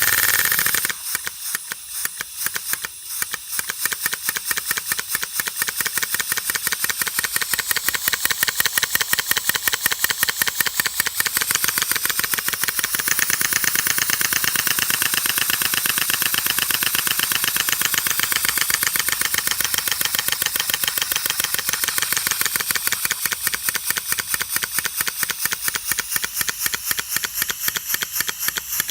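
Rebuilt Stuart steam boiler feed pump running on compressed air, its cylinder exhausting in a quick, even series of hissing puffs. The beat is slower and uneven for the first few seconds, then speeds up and settles into a steady rhythm.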